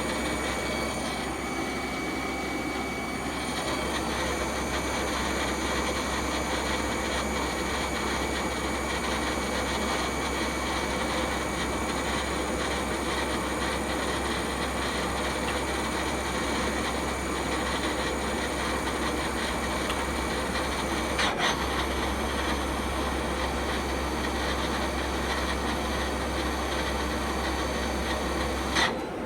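CNC lathe live-tool spindle running steadily at about 4,000 RPM, a constant whine over a low hum. A brief click comes about 21 seconds in, and the sound cuts off sharply near the end.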